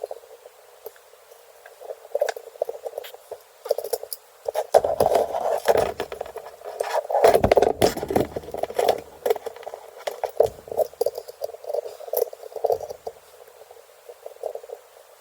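Small metal parts clicking, scraping and rattling as a valve spring compressor is worked to take a valve out of a motorcycle cylinder head. There are two louder stretches of handling in the middle.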